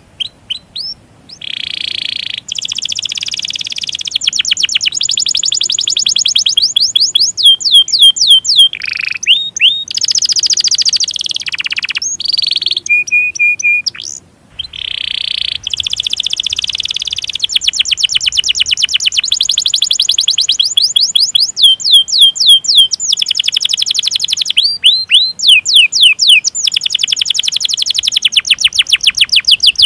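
Domestic canary singing: long rolling trills of rapidly repeated high notes, broken by rising chirp notes and a few short pauses.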